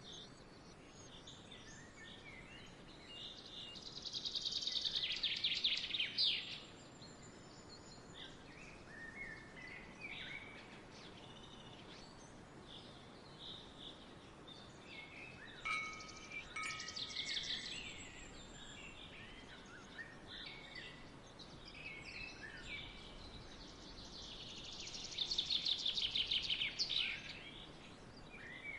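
Songbirds singing: scattered short high chirps, and three times a louder, rapid trill of quickly repeated high notes, over a faint steady outdoor background.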